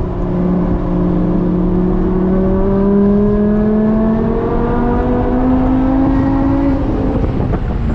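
BMW M5 V10 engine with a custom Eisenmann exhaust pulling hard under acceleration. Its note climbs steadily for about seven seconds, then drops away near the end.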